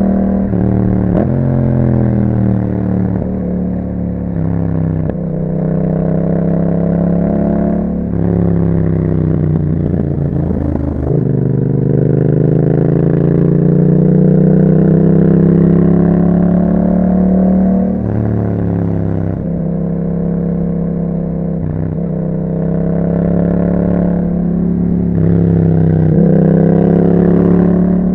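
Yamaha MT-07's parallel-twin engine through an Akrapovic exhaust, ridden hard. The engine pitch climbs and then drops sharply again and again as the rider accelerates, shifts gear and rolls off the throttle.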